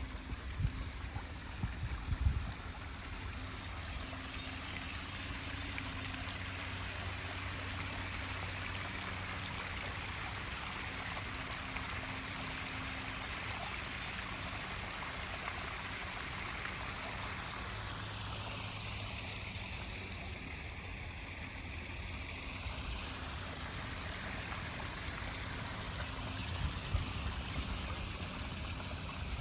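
Small stream babbling steadily: a continuous even rush of running water.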